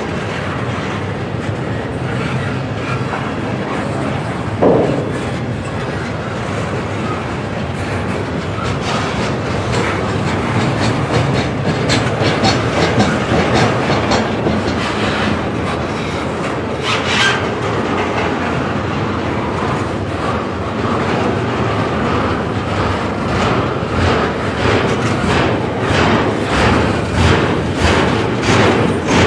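Double-stack intermodal container cars rolling slowly past, a steady rumble with wheels clicking over the rail joints in a regular clickety-clack that grows more distinct in the second half. Two short squeals cut in, one about five seconds in and one just past the middle.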